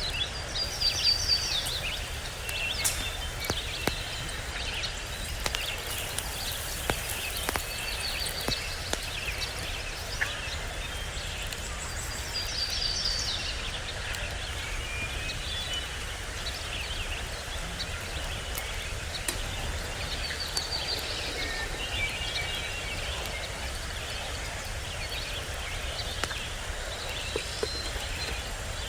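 Small birds chirping and singing short repeated trills, over a steady low outdoor rumble with scattered sharp clicks.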